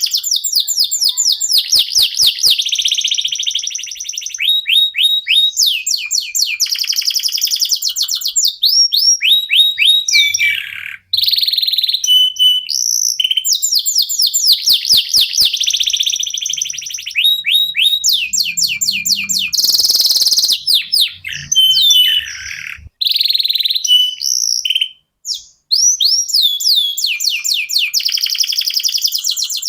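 Domestic canary song: long runs of fast, rapidly repeated notes and rolling trills, high-pitched, with a few short breaks between phrases.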